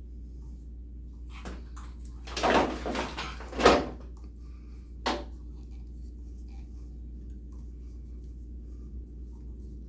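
Handling noises of shower-head plumbing parts: a few short rustles and knocks, the loudest about three and a half seconds in, over a steady low hum.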